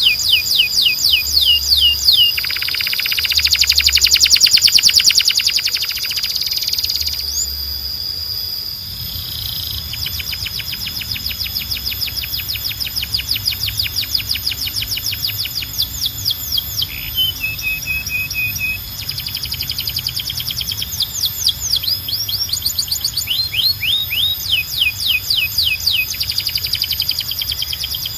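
A canary singing a long, continuous song of rapid trills. It runs through fast series of repeated falling notes, a buzzy rolled trill a few seconds in, and a lower rolled phrase around the middle, over a steady high whistle.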